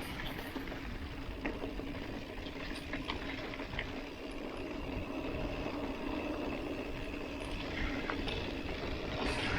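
Mountain bike rolling on a dirt road: a steady noise of tyres on the ground, with scattered small clicks and rattles.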